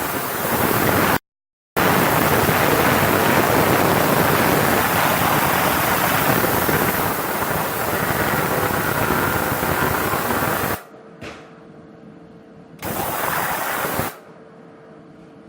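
Industrial ultrasonic cleaning bath running, its wash liquid giving a loud, even hiss of cavitation. The hiss stops about 11 seconds in, leaving a quieter steady hum, comes back briefly near 13 seconds, then stops again.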